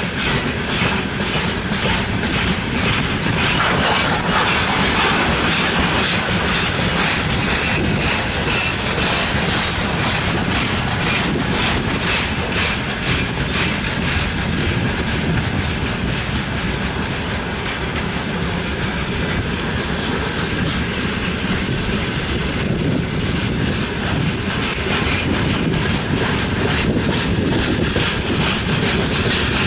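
Freight train of gondola wagons rolling past: a steady rumble of steel wheels on the rails with a rapid, rhythmic clacking of wheelsets over the rail joints.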